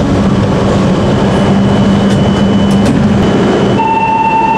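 E5-series Shinkansen at a station platform, heard from the door vestibule: steady train noise with a hum that drops away about three seconds in. Near the end a steady high tone sets in.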